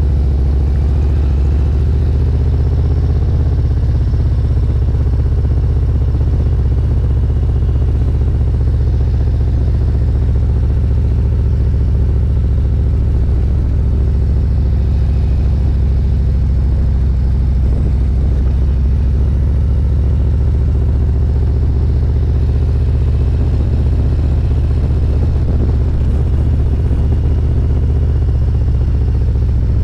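Motorcycle ridden at low speed, its engine running steadily, picked up by the rider's own microphone with a heavy, even low rumble.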